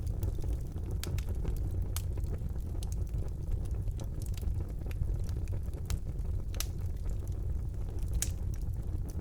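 Wood fire burning in a fireplace: a steady low rumble of the flames with irregular sharp crackles and pops, a few louder snaps in the second half.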